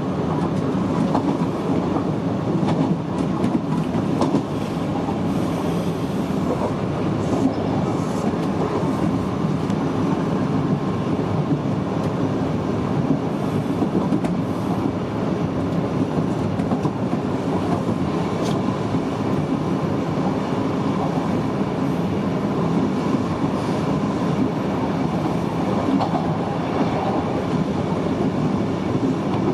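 Kintetsu 6020-series electric commuter train running along the track, heard from inside the driver's cab: a steady running noise of wheels on rail with a few faint clicks.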